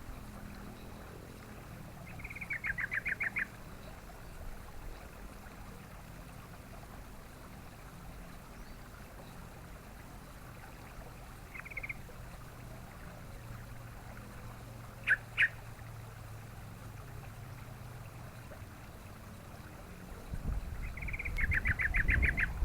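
Yellow-vented bulbul (trucukan) calling: a short bubbly trill of quick notes about two seconds in and another near the end, with a few single sharp notes between. A low rumble runs underneath and grows louder near the end.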